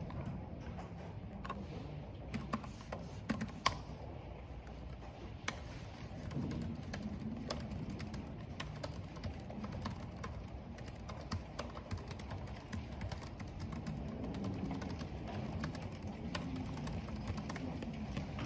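Typing on a computer keyboard: irregular runs of clicking keystrokes. A steady low rush of wind and rain lies underneath.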